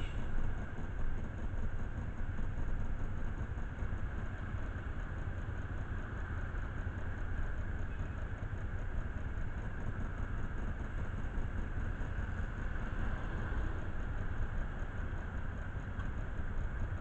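A vehicle engine running steadily, a constant low rumble with no clear changes in speed.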